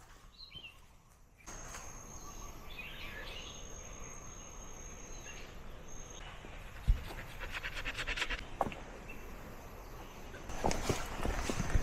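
Outdoor trail ambience: a thin, high, steady call that comes and goes, with a few bird chirps, then footsteps starting about halfway. There is a sharp thump around seven seconds, and the steps grow louder near the end.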